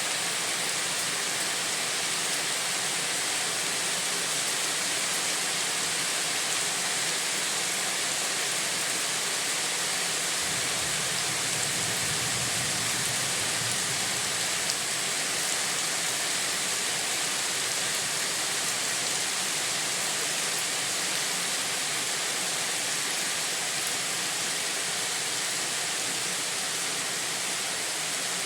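Steady rain falling, an even hiss of water. A low rumble comes in underneath for a few seconds about ten seconds in.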